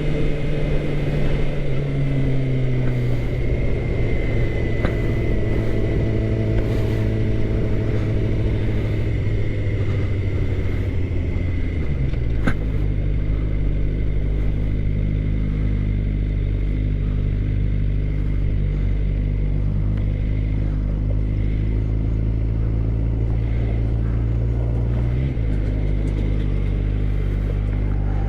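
2013 Suzuki GSX-R600's inline-four engine heard from the rider's seat. Its pitch falls slowly for about twelve seconds as the bike slows, then with a click it settles into a steady low idle for most of the rest, beginning to rise again right at the end.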